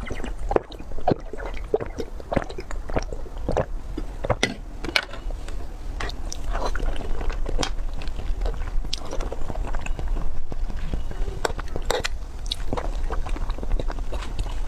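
A person chewing and biting food up close to the microphone: a dense, irregular run of short clicks and wet mouth smacks.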